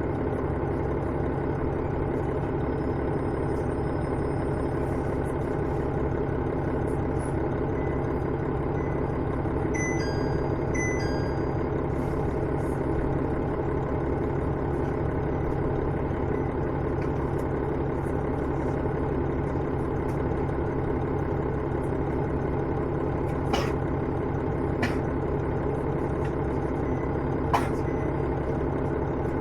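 Inside a KiHa 110 series diesel railcar (car KiHa 112-3), its diesel engine runs at a steady, unchanging pitch under the car's running noise. A few sharp clicks come in the second half, the loudest near the end.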